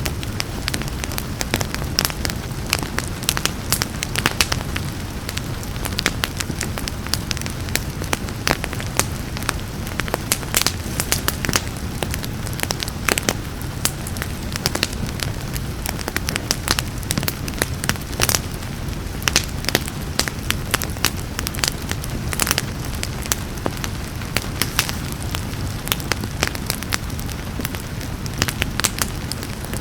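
Wood fire crackling and popping steadily, with many sharp snaps over a low steady rumble of the flames, and rain faintly underneath.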